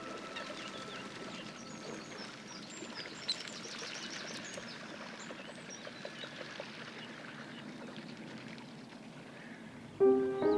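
Outdoor wetland ambience: small birds chirping and singing over an even background hiss.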